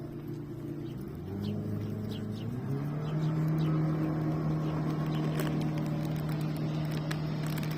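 A motor vehicle engine running. Its pitch rises between about one and three seconds in, then holds steady and a little louder.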